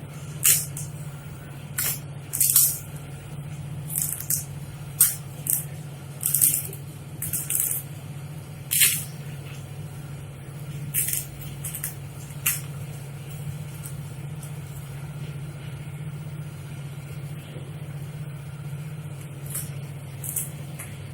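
Plastic parcel packaging being handled, crinkling and rustling in irregular short bursts, frequent for the first dozen seconds and sparser after, over a steady low hum.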